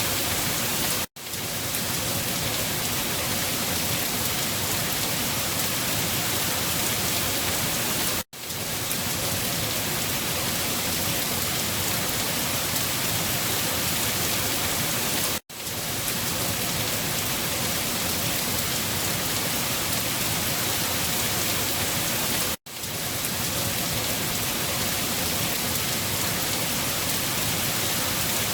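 Steady, even rain. It drops out for an instant four times, about every seven seconds.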